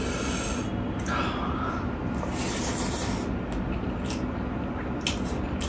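A man chewing a big mouthful of rice, mutton ribs curry and fried chilli, with short wet smacking clicks in the second half over a steady hiss.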